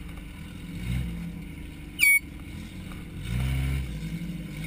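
A small car's engine running, swelling briefly about a second in and revving up again near the end. About two seconds in, a very short, loud, high-pitched squeak cuts across it.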